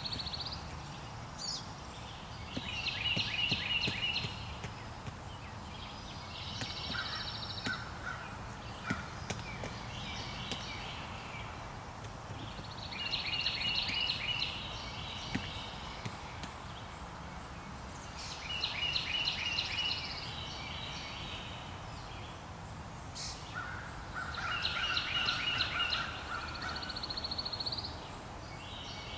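A songbird sings a fast phrase of repeated notes about every five seconds, over steady outdoor background noise, with a few faint knocks in between.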